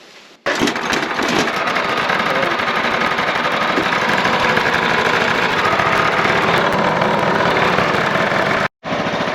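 Wood-Mizer portable sawmill's engine running steadily at idle, with a fast even pulse. It starts abruptly about half a second in and drops out briefly near the end.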